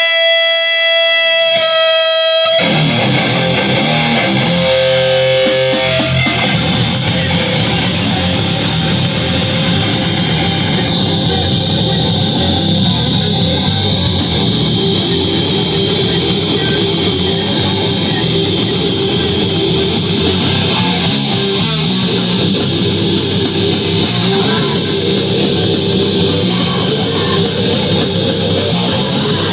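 Live heavy rock band with distorted electric guitar, bass and drums. A single guitar note is held at first, and the full band crashes in about two and a half seconds in and plays loud and dense.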